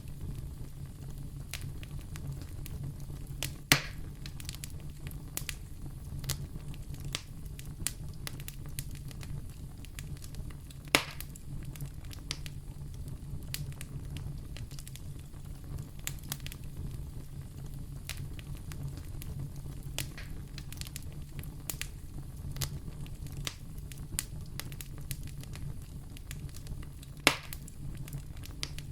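Fire burning in a fireplace: constant small crackles over a steady low rumble, with three sharp, louder pops about 4, 11 and 27 seconds in.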